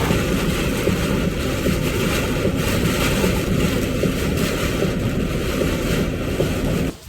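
Typhoon wind buffeting the microphone in a steady, heavy low rumble with a hiss over it, cutting off abruptly near the end.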